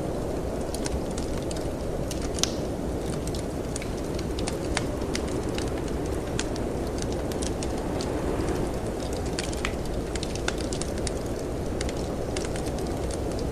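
Wood fire crackling in a fireplace, with irregular sharp pops, the loudest about two and a half seconds in, over a steady low rush of wind.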